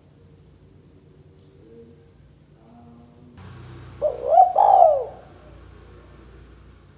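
Spotted dove (tekukur) cooing: one short phrase of a few arching coos, about a second long, a little past the middle, over a faint steady low hum.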